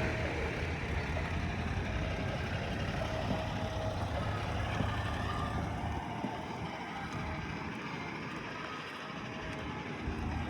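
Truck engine idling with a low, steady rumble that fades away about six seconds in.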